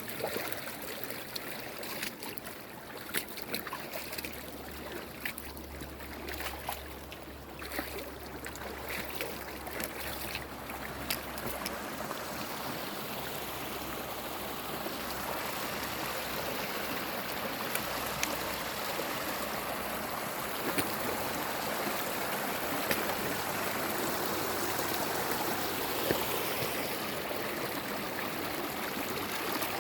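A stream of running water flowing steadily, with small splashes and trickles throughout; it grows a little louder after about twelve seconds.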